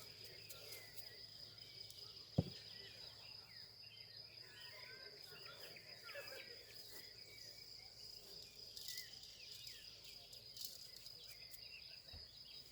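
Faint forest ambience: an insect's steady high trill with scattered small bird chirps. A single sharp knock comes about two and a half seconds in.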